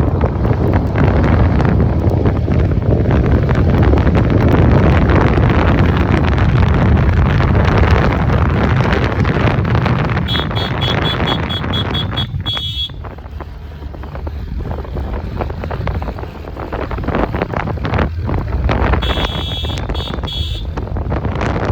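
Wind buffeting the microphone on a moving TVS Ntorq scooter, a dense low rumble with road noise that eases a little midway. A high, rapid beeping sounds twice, about halfway through and near the end.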